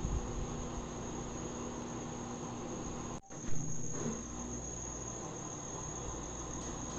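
Crickets trilling steadily over a low, constant rumble, broken by a brief gap and a short knock a little over three seconds in.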